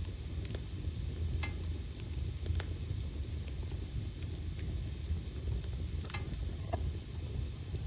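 Wood fire in a fireplace burning steadily: a low rumble of the flames with scattered sharp crackles and pops from the logs.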